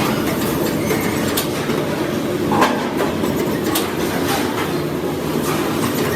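Steady mechanical rumble and rattle, with a handful of short, sharp knocks at irregular moments.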